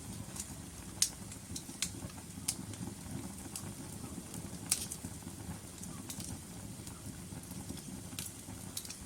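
Logs burning in a fireplace: a steady low rustle of the fire with sharp, irregular crackles and pops. The loudest pops come about a second in and about halfway through.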